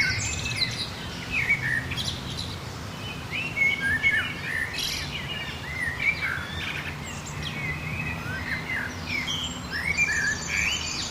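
Several songbirds chirping and singing at once, many short rising and falling calls overlapping, with a fast trill near the end. A steady low hum of background noise runs underneath.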